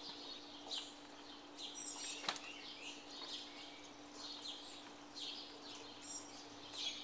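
Birds chirping and calling, with many short overlapping high notes, over a faint steady low hum. A single sharp click about two seconds in.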